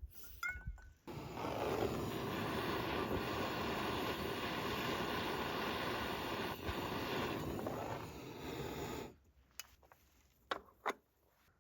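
Handheld butane torch flame burning with a steady hissing rush and a faint whistle in it, smoking wood for a smoky Godfather cocktail. It starts about a second in after a few small clicks, lasts about eight seconds and cuts off suddenly. A few sharp clicks follow near the end.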